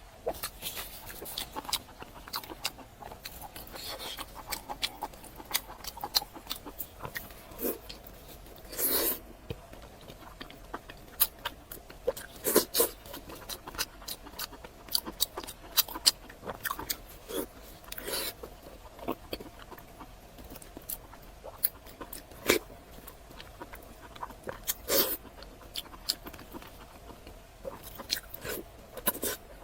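Close-up mouth sounds of eating long strips of pork belly dipped in sauce: chewing, with frequent irregular sharp clicks.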